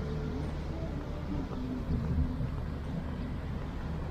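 Road traffic: vehicle engines running with a steady low rumble, a little louder about two seconds in.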